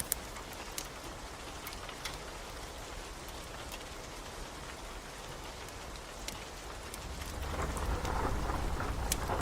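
Steady rain with scattered sharp crackles from a wood fire. A low rumble of thunder swells up near the end.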